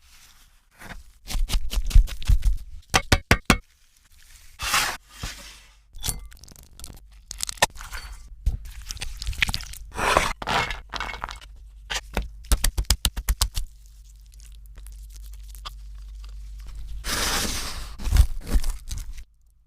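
Close-miked food and utensil handling: a series of sharp crunches, clinks and scrapes, some in quick runs of clicks, with a longer rushing noise about three-quarters of the way through.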